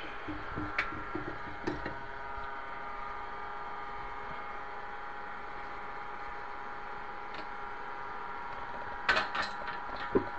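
A few short clicks and knocks, two early and a louder cluster near the end with one sharp thump, from hand work on cabinet fittings, over a steady background hum.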